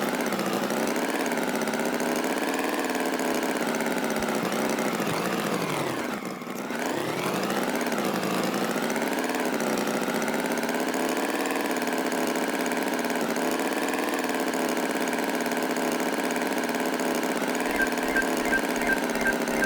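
Engine running steadily with a slightly wavering pitch. It slows with a drop in pitch about six seconds in, then picks back up. Near the end, a regular clicking of about four a second comes in over it.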